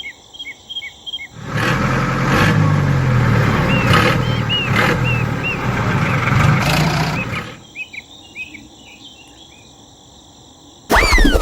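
Small motor of a DIY mini tractor model running loudly for about six seconds with a low hum, then stopping. Birds chirp in quick repeated notes throughout.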